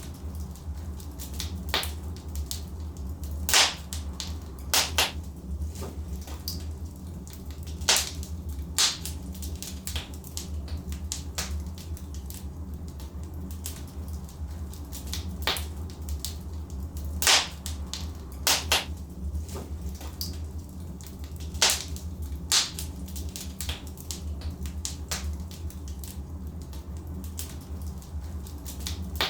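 Wood fire burning in a fireplace: a steady low rumble of the flames with irregular sharp crackles and pops from the burning logs, a few much louder pops scattered through.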